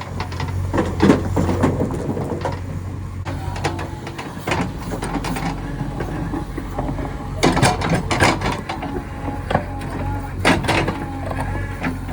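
JCB 3DX backhoe loader's diesel engine running steadily, with irregular knocks and clatter of rocks against the steel bucket and trolley as it loads, loudest in clusters about a second in, near the middle and towards the end.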